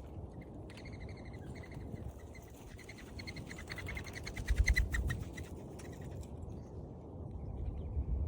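Mourning dove wings whistling: a rapid, even series of short high twittering notes that builds louder and then stops, over a low rumble of wind or handling that is loudest at the same moment.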